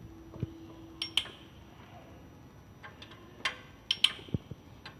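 Scattered sharp metallic clicks and clinks of hand tools on the engine's camshaft bolts, irregular, a few loudest around three to four seconds in.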